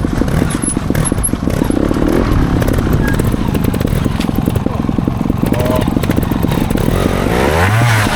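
Trials motorcycle engine running under load, with a sharp rev that rises in pitch near the end.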